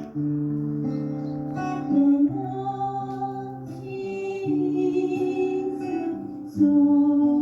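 A woman singing a slow, gentle song with guitar accompaniment, holding long notes.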